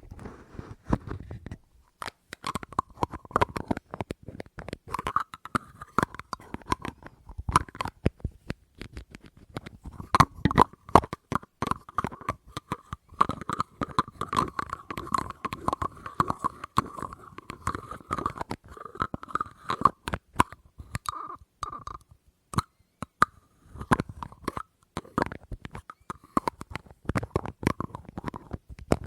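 Quick, irregular taps and clicks on a hard object, several a second, ASMR-style. Through the middle stretch the object rings at one steady pitch under the taps.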